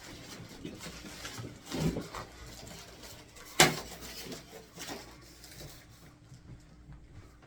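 Handling noises as things are moved and set down: a dull thump about two seconds in and a sharp knock about three and a half seconds in, with light clatter and rustling around them.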